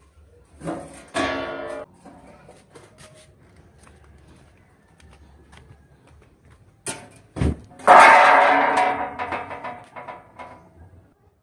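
Metal clanking and ringing: a short ringing clang about a second in, then a couple of sharp knocks and a louder clang that rings on for a few seconds, typical of sheet-metal muffler parts being handled or struck.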